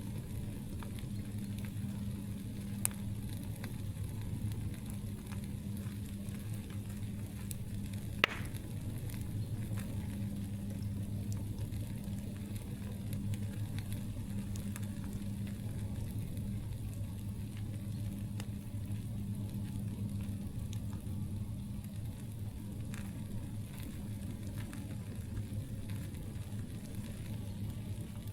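Campfire crackling, with scattered small pops and a louder snap about eight seconds in.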